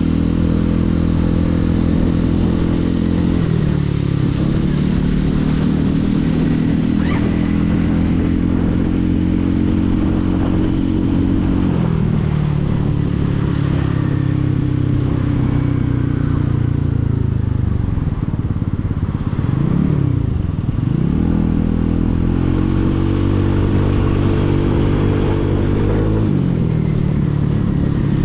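Motorcycle engine heard from the rider's seat, pulling through the gears in city traffic. Its pitch climbs and drops back at each gear change, about four seconds in and again near the middle. About two-thirds of the way through it slows right down, then pulls away again.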